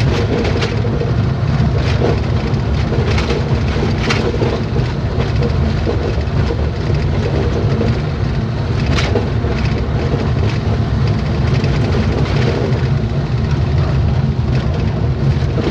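Steady low rumble of a vehicle driving along a road, with a few light knocks.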